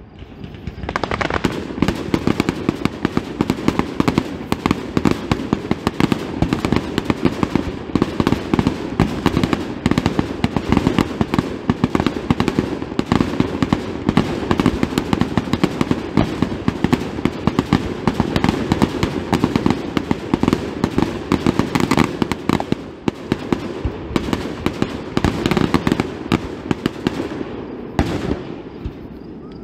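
Aerial fireworks shells bursting in a rapid, dense barrage, many bangs a second with no gaps. It starts about a second in and thins out near the end.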